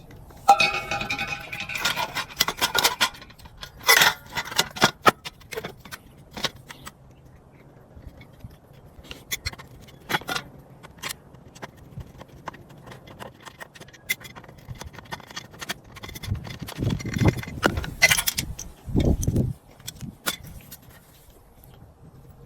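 Small metal parts and tools clinking, scraping and clattering as they are handled, in irregular clusters of sharp clicks, with a couple of duller thumps near the end.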